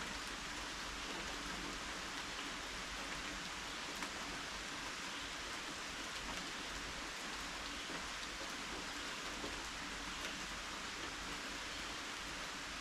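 Steady rain falling, an even hiss with the odd louder drop ticking through it.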